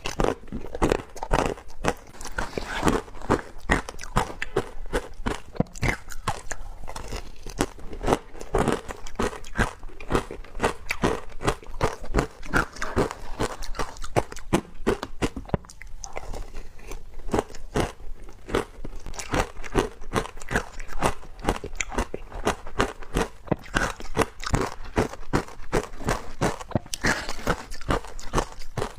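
Teeth biting through wet frozen matcha ice: a dense run of crisp cracks and crunches, one close on another, with a brief lull about halfway through.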